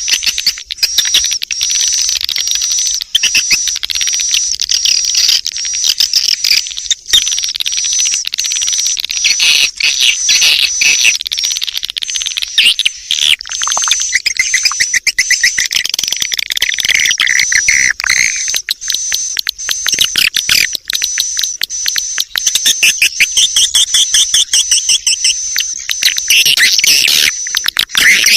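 Recorded swiftlet calls: dense, rapid high-pitched chirping and twittering that never stops, over a steady thin high tone. This is the lure call played from swiftlet houses to draw the birds in to roost and nest.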